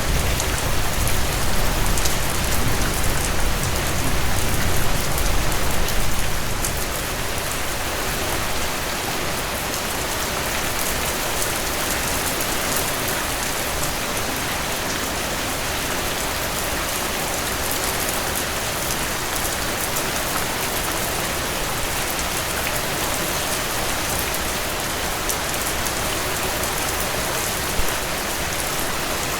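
Heavy rain falling steadily on a cabin porch, an even hiss of many drops. A low rumble underlies the first six seconds and then dies away, and there is one sharp pop near the end.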